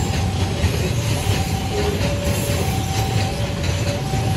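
Loaded container flat wagons of a freight train rolling past close by: a steady rumble of steel wheels on the rails, with faint short squeals from the wheels recurring about once a second.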